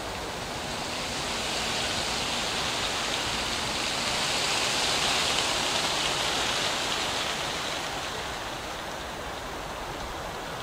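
Wagons of a freight maintenance train rolling away over the rails, a steady rushing noise that swells about midway and then eases off.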